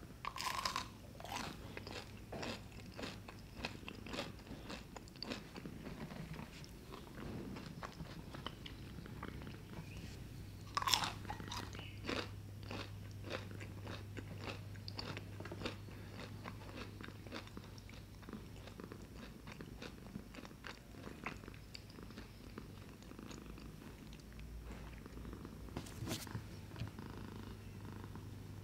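Crisp crunching of fried churros being bitten and chewed, a run of sharp crackles with two louder bites, one about half a second in and one around eleven seconds.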